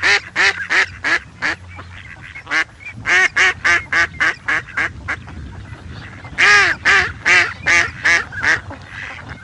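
Duck quacking in rapid runs of short nasal calls, about three to four a second, with two brief pauses between the runs.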